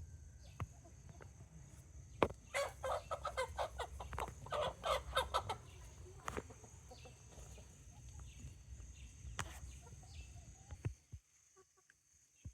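A chicken clucking: a quick run of short, repeated clucks lasting about three seconds, over a steady low rumble.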